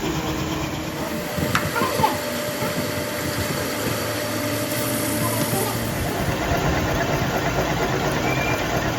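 A machine or engine running steadily, with a few sharp metallic knocks about one and a half to two seconds in.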